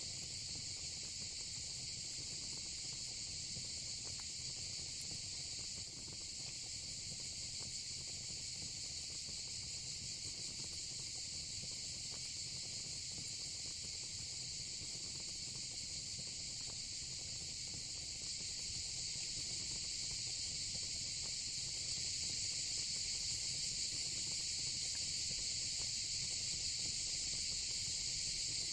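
Steady, high-pitched chorus of crickets and cicadas, unbroken, over a low fire-pit burn with occasional faint crackles. It grows slightly louder in the second half.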